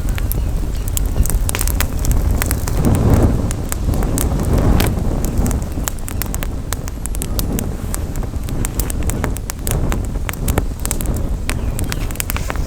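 Campfire crackling, with many irregular sharp pops and snaps, over a steady low rumble of wind buffeting the microphone.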